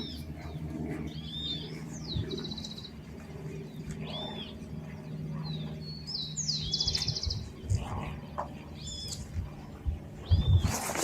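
Songbirds calling: short chirps that rise and fall, repeated all through, with a quick high trill of rapid notes twice, about two seconds in and again about seven seconds in.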